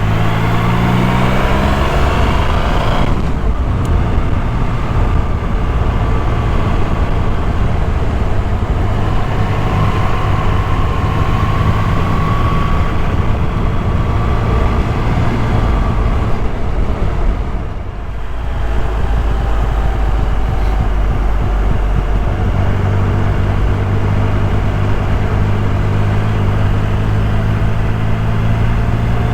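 Motorcycle engine running under way, mixed with heavy wind rush. The engine note stands out at the start and again in the last third, with a short drop in level a little past halfway.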